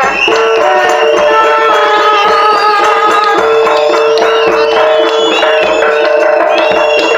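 Live jaranan music from a Javanese ensemble: a long held note with a melody moving above it, over steady drum strokes and percussion.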